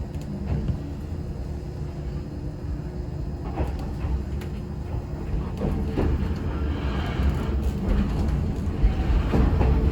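Yoro Railway local electric train heard from inside, pulling away and gathering speed, its low rumble growing steadily louder. Short clicks of the wheels over rail joints come in from about a third of the way through.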